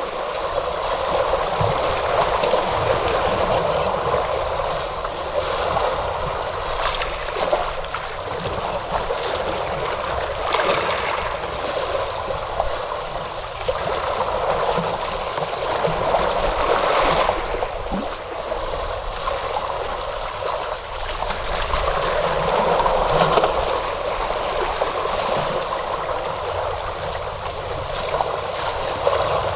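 Ocean surf washing in: a continuous rush of water that swells and eases every few seconds, slightly louder about two-thirds of the way through.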